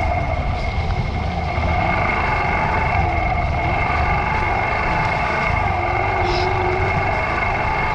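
Yamaha YBR125's single-cylinder four-stroke engine running steadily while riding.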